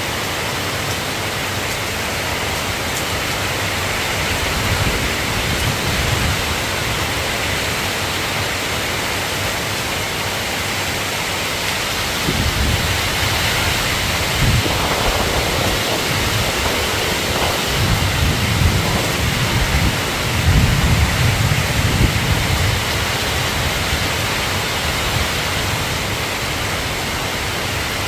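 Steady rain falling, with low rumbles of thunder rolling in and out through the middle, loudest about two-thirds of the way through.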